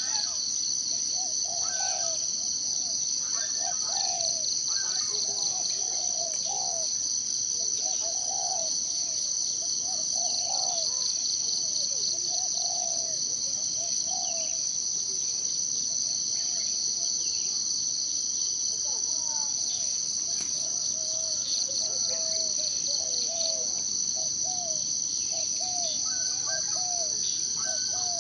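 A steady, high-pitched insect chorus drones without a break, while birds call over it with many short, curved notes, busiest in the first half and again near the end.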